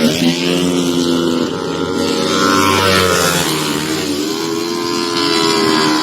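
Several racing motorcycle engines running at high revs, their pitch rising and falling as the bikes accelerate, shift and pass.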